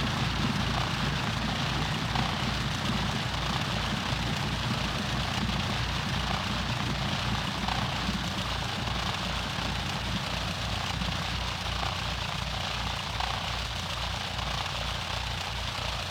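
Cessna 152's four-cylinder Lycoming engine and propeller running steadily, a continuous drone with a regular low pulsing, growing slightly quieter over the course of the sound.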